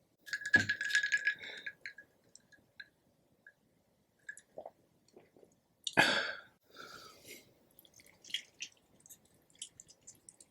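Close-miked eating of rotisserie chicken, with crackling handling and chewing. A burst of crackles and a dull thump come about half a second in, a louder crackle about six seconds in, then softer scattered chewing sounds.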